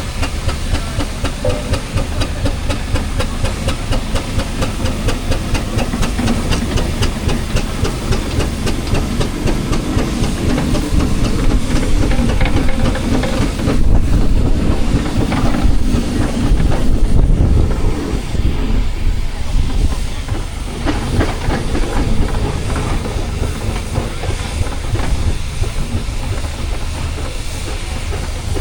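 Steam engines running, with rapid, even exhaust chuffs and a steady steam hiss. The sound gets louder for a few seconds about halfway through.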